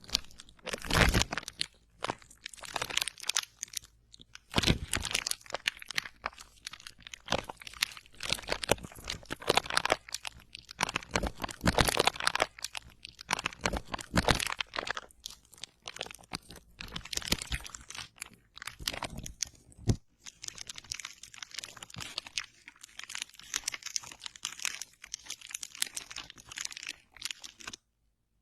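Close-miked ASMR crunching and crackling: a dense run of sharp crackles with louder crunches at irregular moments, cutting off abruptly shortly before the end.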